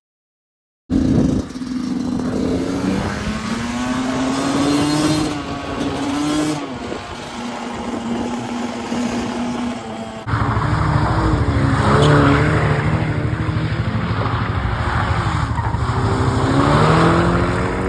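Motorbike engines revving and riding by, the pitch rising and falling with the throttle. It starts abruptly after about a second of silence, and about ten seconds in a sudden cut brings louder engines.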